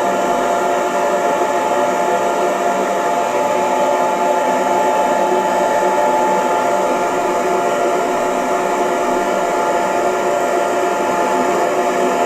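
Hair dryer running steadily: an even rush of air with a steady motor whine in it, unchanging throughout.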